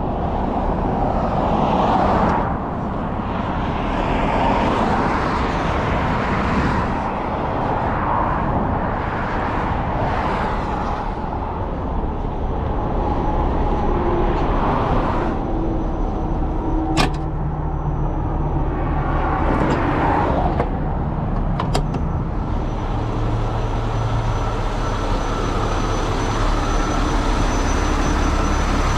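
A heavy truck engine running steadily, with repeated swells of rushing noise and two sharp clicks partway through.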